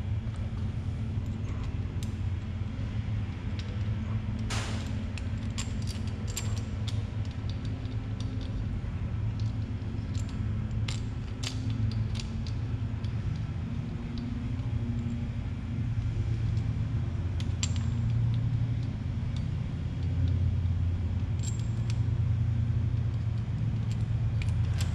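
Scattered light metallic clicks and clinks of small valvetrain parts being handled: broken hydraulic lash adjuster pieces from a Coyote V8 cylinder head. A steady low hum runs underneath.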